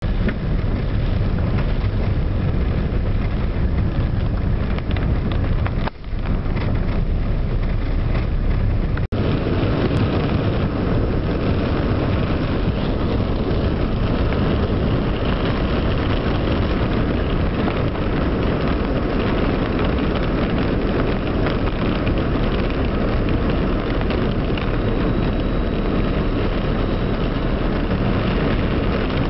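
Heavy downpour: a steady, dense rush of rain with a strong low rumble underneath. The sound drops out for an instant twice, at about six and nine seconds in.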